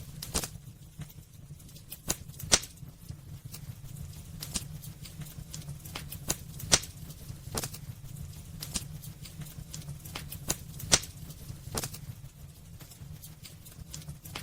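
Wood fire crackling in a fireplace: irregular sharp pops and snaps from the burning logs, three of them much louder than the rest, over a low steady rumble.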